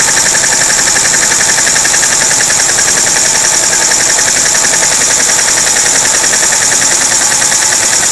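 Household vacuum cleaner running steadily at high power with a high whine, mixed with a fast, even rattling pulse from a homemade butterfly-valve vacuum engine spinning on its suction.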